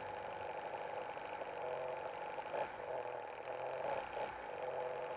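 Nitro glow engine of a large RC model airplane running steadily, with brief swells in level a couple of times.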